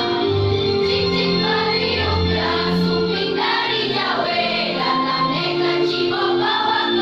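A school choir singing sustained phrases together, with a steady low instrumental accompaniment under the first half.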